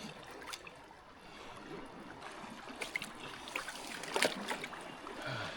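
Faint water sounds with a few light clicks and scrapes, the clearest about four seconds in.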